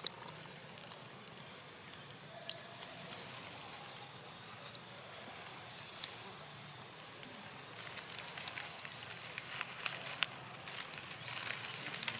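Outdoor ambience of light rustling and scattered clicks, growing busier in the second half, with a few short high rising chirps in the first few seconds.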